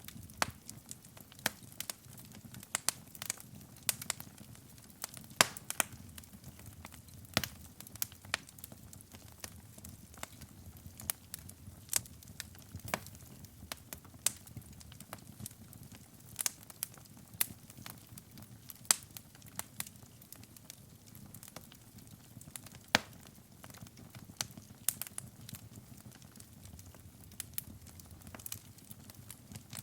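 Wood fire burning in a fireplace: irregular sharp crackles and pops, several a second, over a soft low rumble of the flames.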